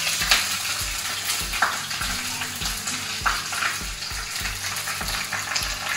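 Garlic, dried red chillies and curry leaves sizzling in hot oil in a small steel kadai, with a few clicks of a spoon stirring them: the tempering (tadka) for rasam frying.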